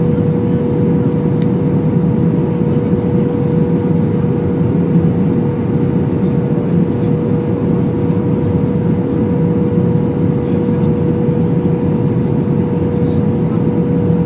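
Steady cabin noise of an Airbus A321 with its engines running: an even low rumble with a constant hum-like tone running through it.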